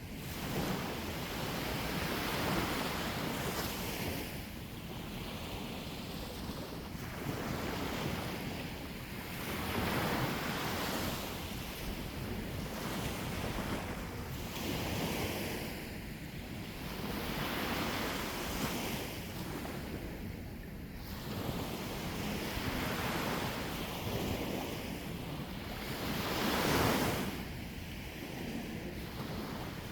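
Sea waves breaking and washing on the shore, surging every two to three seconds, with wind buffeting the microphone.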